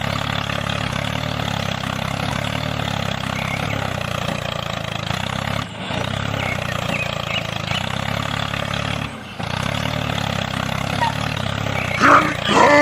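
Small motor running steadily with a low hum, dropping out briefly twice, about six and nine seconds in. A short voice-like call sounds near the end.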